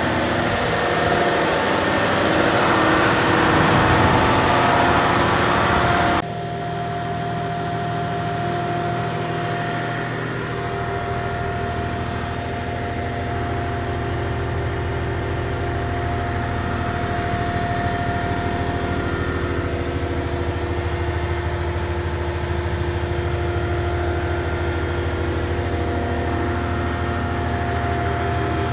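Caterpillar 740B haul truck's C15 diesel engine running steadily, with a loud hiss over it for the first six seconds that cuts off suddenly, leaving the engine's even hum.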